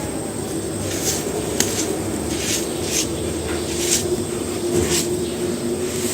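Pieces of dry pure cement being crumbled and snapped by hand: a series of short, crisp crunches, about six strong ones, over a steady low hum.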